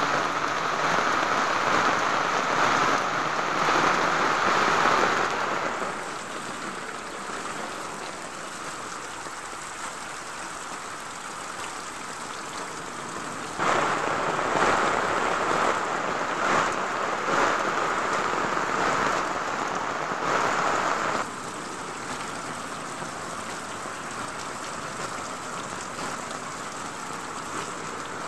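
Heavy rain pouring onto a wet lane and palm foliage, a dense steady hiss that abruptly gets louder and softer a few times.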